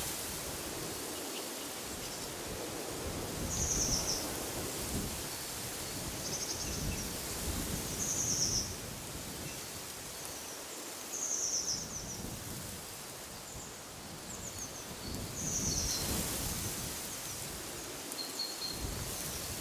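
Wind gusting through trees, with low rumbling surges every few seconds, while a bird repeats a short, high, buzzy call every second or two.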